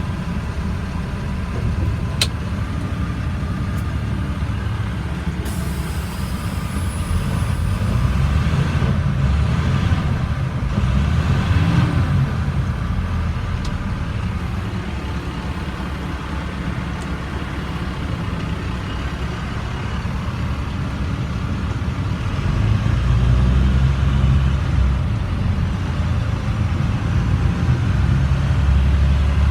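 Diesel engine of a 2007 International 4400 dump truck, a DT466 inline six, running as the truck drives, its note swelling louder and easing off a few times with the throttle.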